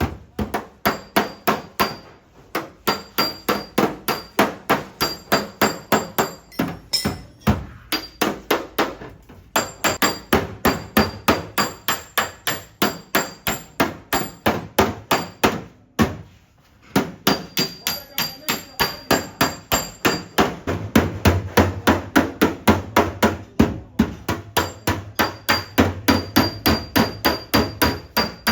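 Hammer beating the sheet-metal body of a crash-damaged Suzuki Alto during panel denting. The blows come fast and steady, about three a second, with a faint metallic ring and a few short pauses.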